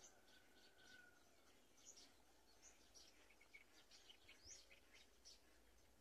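Faint high-pitched bird chirps, many short calls in quick succession over a low steady hiss.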